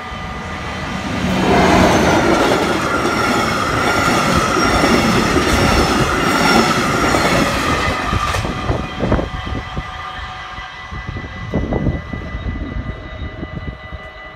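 Volkerrail class 203 diesel locomotive passing close with an empty work train, loudest for the first few seconds as the locomotive goes by. The wagons follow, their wheels knocking sharply a few times over the crossing. The level crossing's mechanical bells ring steadily throughout.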